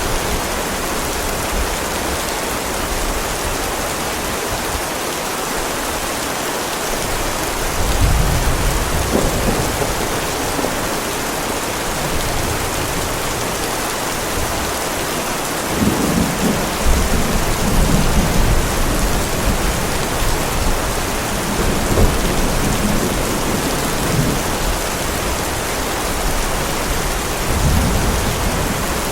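Heavy rain falling in a steady hiss, with thunder rumbling low several times: about a quarter of the way in, for a few seconds past the middle, and again near the end.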